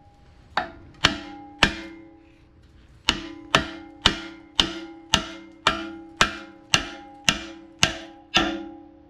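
Hammer blows ringing on steel parts of a rear differential, knocking them loose during teardown. There are three blows, a short pause, then eleven more at about two a second.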